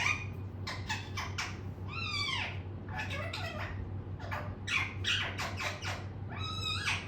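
Pet parrot giving a rapid string of short calls, several of them arching up and down in pitch, much like meows.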